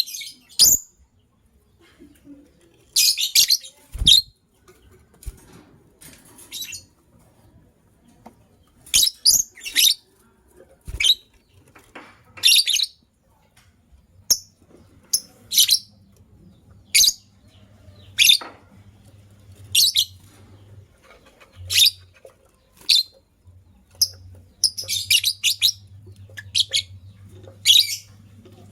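Lovebirds chirping: short, shrill chirps every second or two, some coming in quick clusters.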